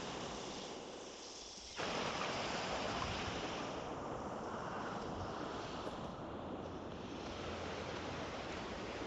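Creek water rushing: a steady, even noise that dips a little and jumps back up just under two seconds in.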